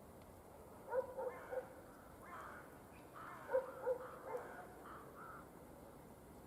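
A dog barking in the distance: three short barks about a second in, then three more a couple of seconds later.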